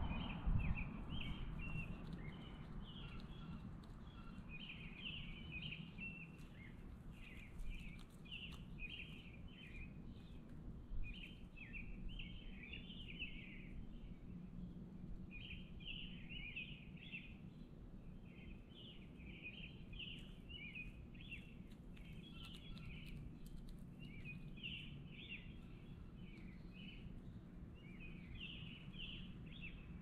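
Backyard birds chirping: quick, short chirps come in clusters every second or so, over a steady low rumble of background noise that is louder in the first couple of seconds.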